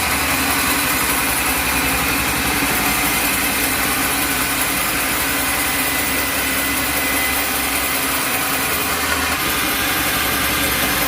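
Sawmill machinery running steadily, an engine-driven saw held at a constant pitch and level.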